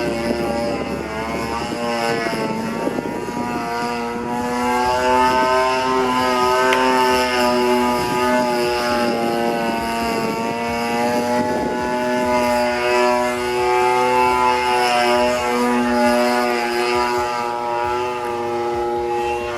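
26cc two-stroke gasoline engine of a CRRC Katana V3 RC aerobatic airplane running in flight, its propeller note rising and falling in pitch and loudness as the plane manoeuvres.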